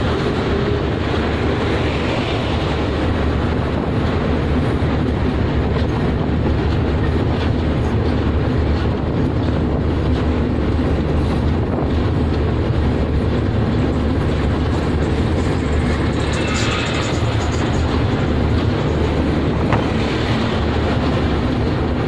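Chitra Express intercity passenger train running at speed, heard from its open coach door: a steady, loud rumble and rattle of wheels and carriages on the rails.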